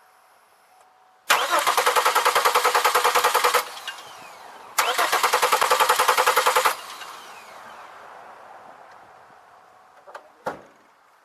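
2002 Chevy Malibu engine cranking on the starter in two bursts of about two seconds each, with a fast even chug, and not catching: the no-start the car is being diagnosed for. Two short knocks follow near the end.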